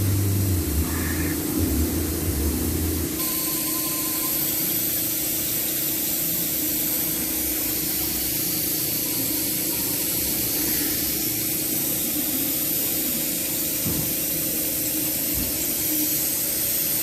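A steady, unbroken hiss like a spray or an air jet, starting about three seconds in.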